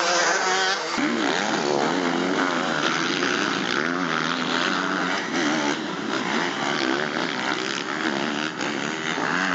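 Several motocross bikes racing, their engines revving up and down continuously and overlapping one another.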